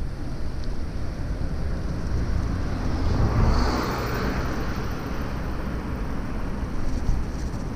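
Street traffic heard from a moving bicycle, with a vehicle passing close about three to four seconds in, over a steady low rumble of wind and road noise.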